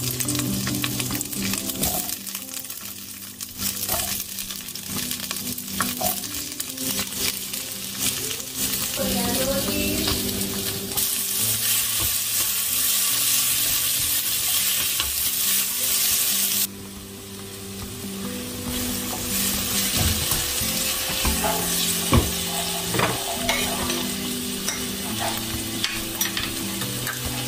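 Diced bell peppers sizzling in hot oil in a non-stick frying pan as they are stirred, with scattered clicks. The sizzle grows louder from about 11 seconds in, then drops off suddenly about two-thirds of the way through.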